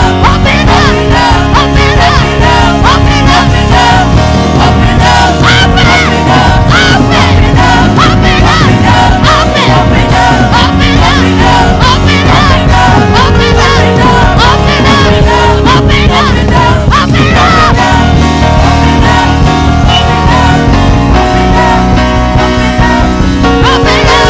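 Church worship band playing loud, continuous full-band music, with sustained bass notes, a regular beat and a wavering lead melody over it.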